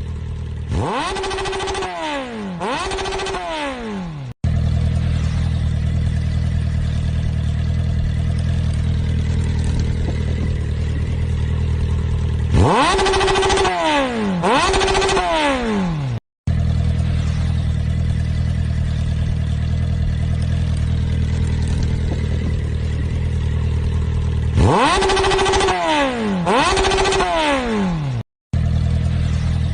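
Motorcycle engine idling, then revved twice, each rev rising sharply and falling away. The same idle-and-two-revs sound runs three times over, each ending in an abrupt cut.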